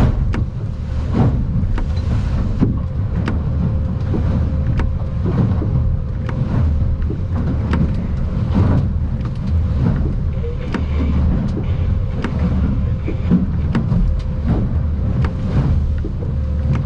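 Aluminium boat under way in rough water: a steady low engine and hull rumble, broken by frequent sharp knocks and rattles as the hull rides the chop.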